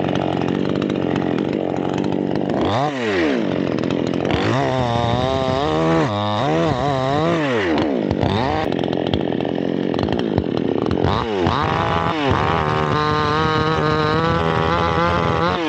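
Chainsaw running at high revs and cutting through teak wood. Its pitch dips and recovers several times as the chain loads in the cut.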